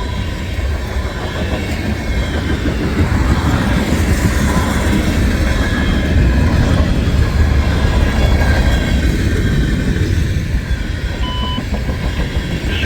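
Freight cars of a long manifest train rolling past, their steel wheels on the rails making a steady, loud rumble. A short, thin high tone sounds about eleven seconds in.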